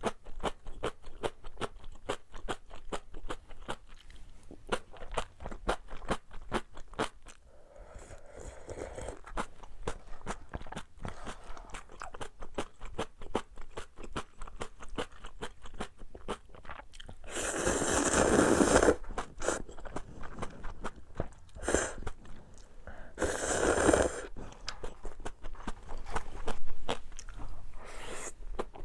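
Close-miked eating: wet chewing with rapid crunching clicks throughout. Twice, about two-thirds and four-fifths of the way through, there is a louder slurp of cup-ramen noodles, the first lasting about a second and a half.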